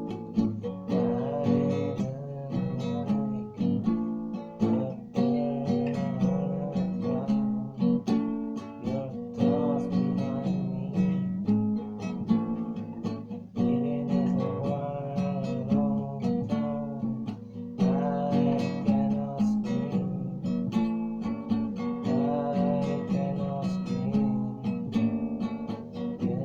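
Acoustic guitar playing an instrumental piece, with a steady flow of plucked and strummed chords.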